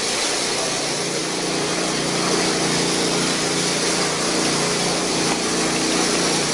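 A machine running steadily: a wide, even mechanical noise with a steady hum under it that firms up about a second in.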